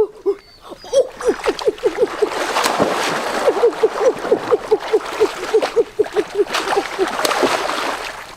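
A rapid series of short, pitched animal calls, about four or five a second, with a short break about six seconds in, over the steady rush of splashing water.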